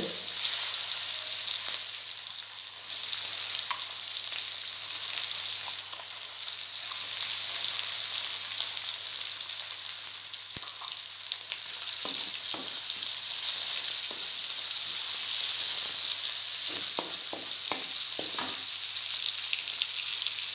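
Sliced onions, green chillies, curry leaves and chana dal sizzling in hot oil in a metal kadai, with a steady hiss. A wooden spatula stirs them and now and then scrapes and taps against the pan, more often in the second half.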